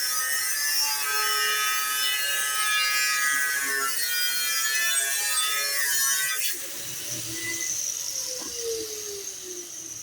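Power tool working metal with a harsh, high-pitched rasping whine that cuts off abruptly about two thirds of the way through. The motor then winds down with a slowly falling pitch.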